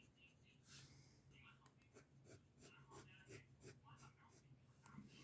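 Faint pencil strokes scratching on paper, a run of short quick strokes several a second, with a faint steady low hum underneath.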